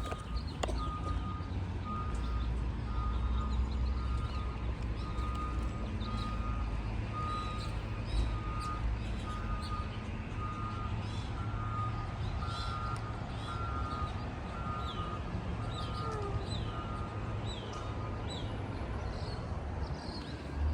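Repeated electronic warning beeps, alternating between two close pitches, over a steady low rumble, with short high chirps joining in about halfway through.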